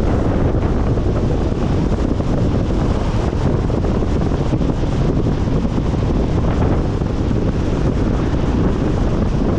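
A car driving at a steady speed: a continuous low rumble of tyres, engine and wind that holds level throughout.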